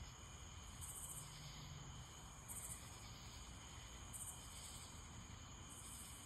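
Faint night chorus of crickets: a steady high trill, with a higher buzzing call repeating about every second and a half.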